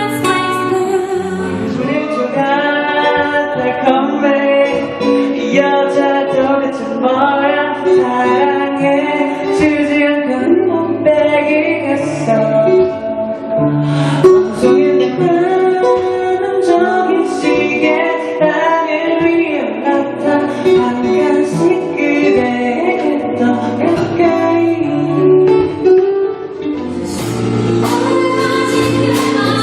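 Music: a woman singing over acoustic guitar accompaniment.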